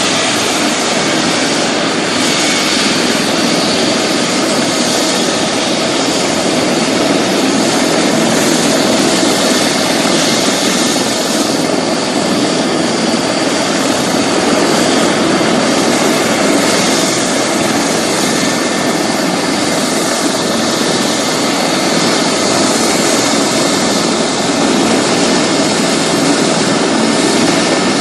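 Medical helicopter's turbine engine and rotor running steadily at close range: a dense rushing noise with a faint steady whine on top.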